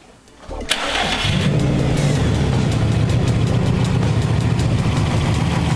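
A 2004 Subaru WRX's turbocharged flat-four engine is cranked by the starter and catches about a second in, then settles into a steady idle.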